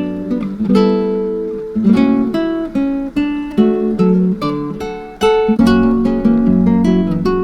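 Acoustic guitar music: a run of plucked notes, each ringing and fading.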